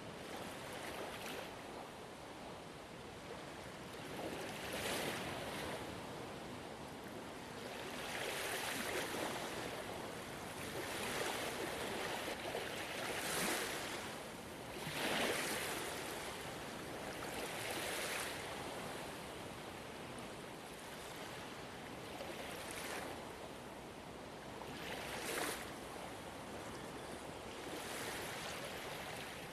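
Gentle ocean waves breaking on the shore, a steady wash with a swell of hissing surf every few seconds.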